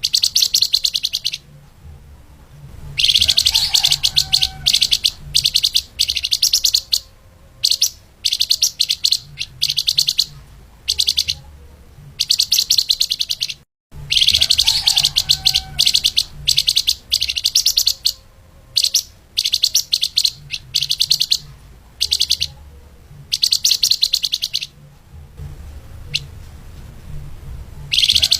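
Flamboyan (lemahan) songbird singing fast, tightly packed high trills in short bursts a second or so apart. There is a brief cut in the sound about halfway through.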